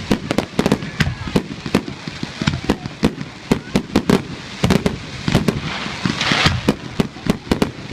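Professional fireworks display: aerial fireworks bursting in rapid, irregular bangs, several a second, with a brief rush of hiss about six seconds in.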